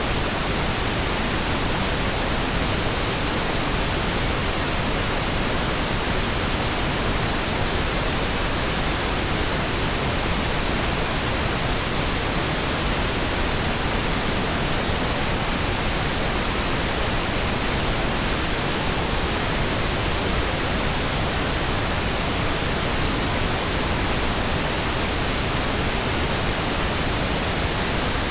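Steady, unbroken pink noise: an even hiss across all pitches, with no changes.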